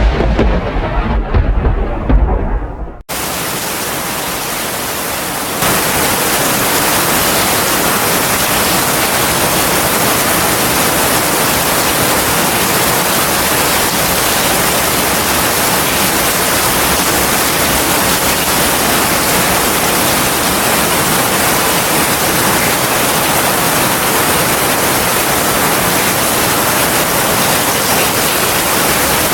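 A loud, deep rumble of thunder for the first three seconds, cut off abruptly, then the steady hiss of heavy rain, which steps up louder about six seconds in.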